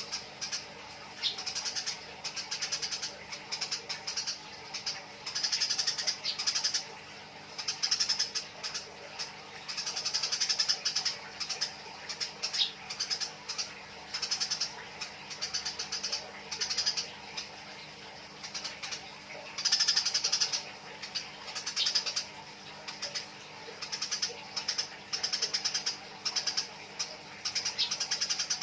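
Eurasian tree sparrows chattering in rapid, harsh bursts of chirps, one burst every second or two: the agitated calls of sparrows squabbling.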